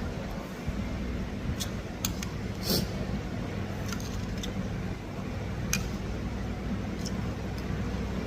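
A handful of short, light clinks of eating utensils against a noodle bowl, scattered irregularly, over a steady low hum.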